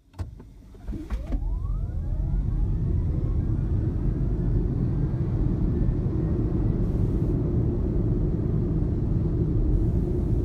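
Toyota Prius PHV accelerating hard on electric power. The electric drive's whine rises in pitch over the first few seconds, over a low rumble of road noise that builds up and then holds steady.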